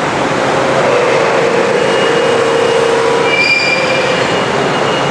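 Steady, loud mechanical noise of machinery running, with thin squealing tones that come in about a second in and again higher around three and a half seconds.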